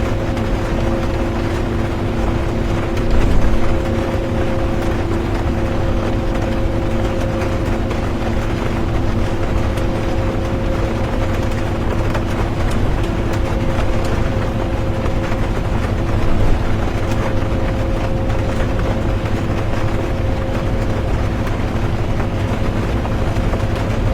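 Bus interior while driving: a steady drone of engine and road noise with two constant steady tones, under the hiss of rain. The sound swells briefly about three seconds in and again about sixteen seconds in.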